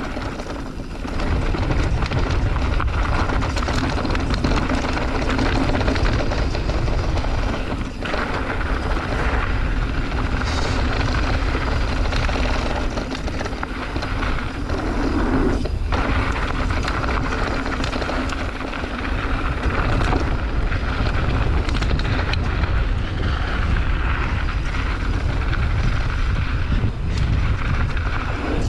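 Steady wind rush buffeting the microphone, with rumbling and rattling trail noise from a mountain bike riding downhill over rough ground.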